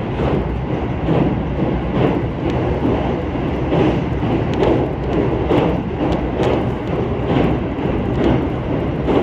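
Interior of a JR Central 313-series electric train running along the line: a steady low rumble, with wheels clacking over rail joints about once a second.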